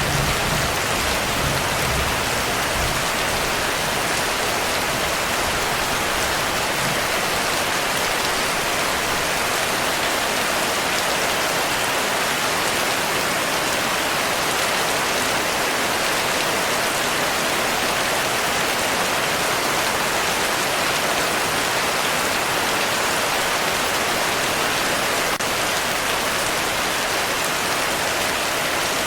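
Steady heavy rainfall, an even hiss of drops, with the tail of a low thunder rumble dying away in the first couple of seconds.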